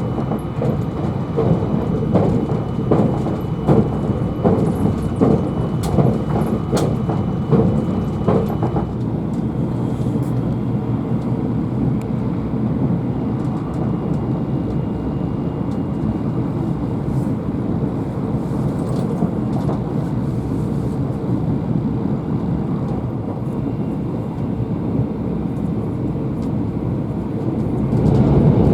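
Train running on rails: a steady low rumble, with a run of short clicks and knocks over the first nine seconds or so, then an even, smoother rumble.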